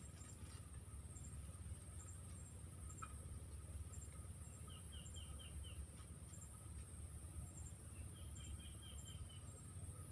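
Faint outdoor ambience: a steady high-pitched insect drone, with a bird giving two short runs of about five quick, falling notes, one in the middle and one near the end, over a low rumble.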